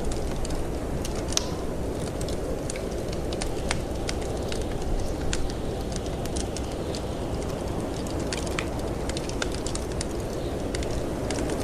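Wood fire crackling in a fireplace, with irregular sharp pops and snaps over a steady low rumble of snowstorm wind.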